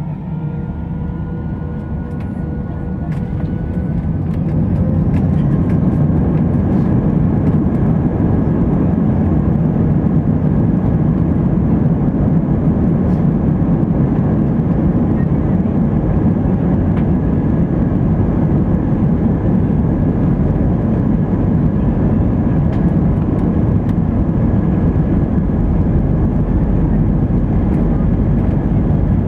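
Airbus A319 jet engines heard from inside the cabin, spooling up to takeoff power with a rising whine over the first few seconds. A steady, loud rumble of takeoff thrust and the takeoff roll follows.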